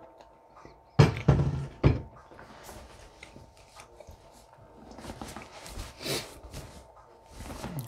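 Eating sounds: chewing and mouth noises with small clicks, and a few loud thumps about a second in.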